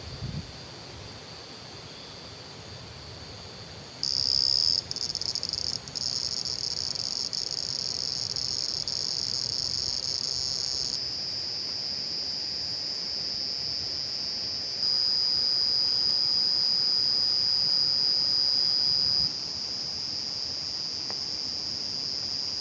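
A steady, high-pitched chorus of chirring insects over a constant rushing of water. The insect sound jumps up suddenly about four seconds in and changes level abruptly several more times.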